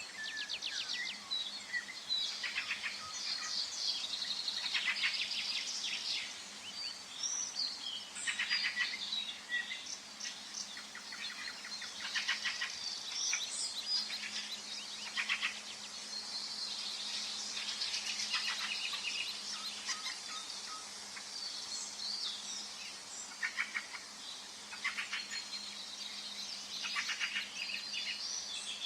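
Several songbirds singing and chirping in a forest, their phrases overlapping and following one another throughout over a faint steady background hiss.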